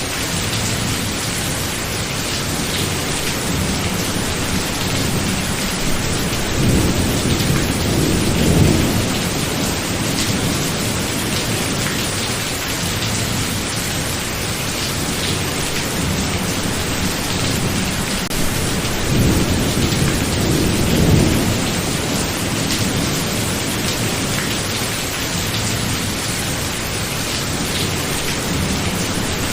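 Thunderstorm: steady heavy rain, with thunder rumbling twice, first about seven seconds in and again around twenty seconds in.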